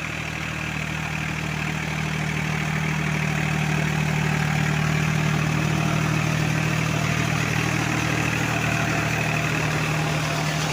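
Powertrac Euro 45 Plus tractor's diesel engine running steadily, growing a little louder over the first few seconds and then holding.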